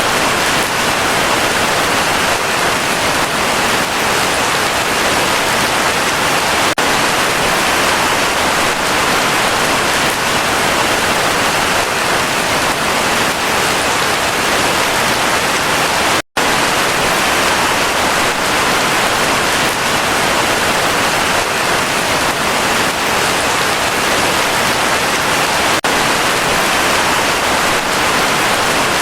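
Heavy rain falling steadily as a dense, even hiss. Once, about sixteen seconds in, the sound cuts out for a split second and then resumes.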